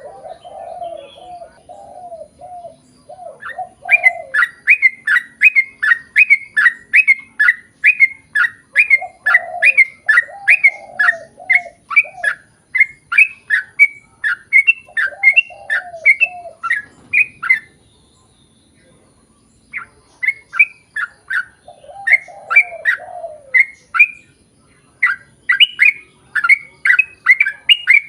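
Yellow-vented bulbul (trucukan) song: long runs of loud, quick chattering notes, about two a second, broken by lower bubbling phrases now and then and a short pause about two-thirds of the way through.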